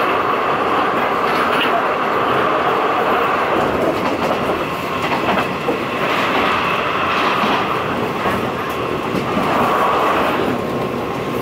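Passenger express train running steadily on the rails, heard from aboard a carriage: a continuous loud rumble and hiss of wheels on track, with a faint wheel click now and then.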